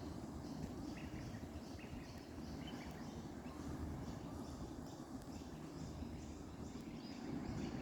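Faint birds calling in the tree canopy: short high notes repeated about twice a second, with a few lower chirps in the first few seconds, over a low steady rumble.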